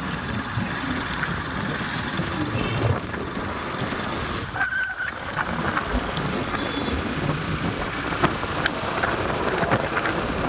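Riding on a motorcycle: steady engine and road noise with wind on the microphone.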